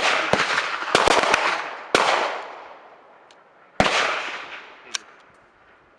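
Gunshots: several sharp reports in quick succession in the first second and a half, then single shots about two and about four seconds in, each trailing off in a long echo.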